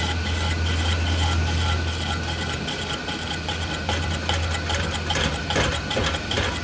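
An engine running steadily with a low hum that eases off about halfway through, and a few sharp metallic knocks near the end.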